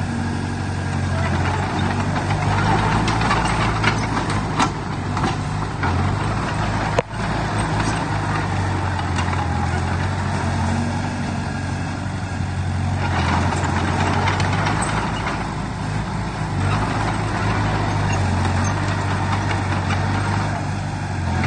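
Heavy diesel engine of earthmoving machinery running steadily, a low engine drone with a rise in noise for a couple of seconds past the middle. A single sharp click about seven seconds in.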